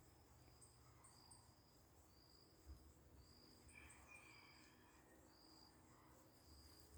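Faint cricket chirping: short, high chirps repeating evenly about once a second. A few fainter, lower calls come near the middle.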